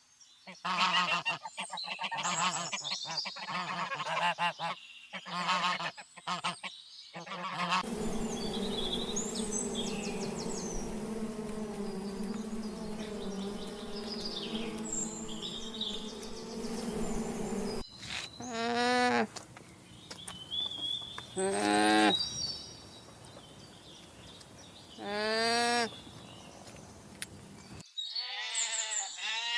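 Geese honking in a string of short recordings. First comes a busy flock calling over one another, then a steadier flock over a low drone. About 18 seconds in there are three single honks a few seconds apart, and just before the end a bleat begins.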